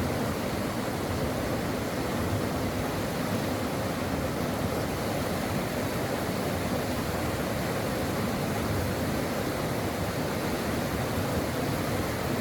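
A brook flowing, its water rushing in an even, unbroken hiss.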